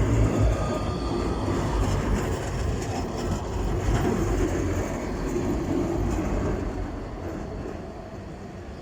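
Tram passing close by: a steady rumble of wheels on rail and running gear that fades away over the last couple of seconds.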